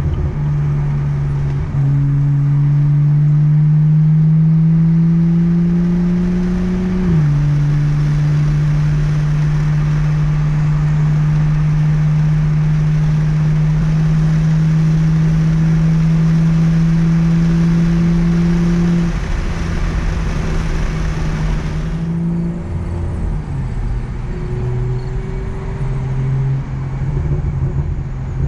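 BMW M235i's N55 turbocharged inline-six through a Fabspeed muffler bypass, accelerating under load. The note rises, drops sharply at an upshift about seven seconds in, then climbs slowly again for about twelve seconds before falling back to a lower, uneven drone.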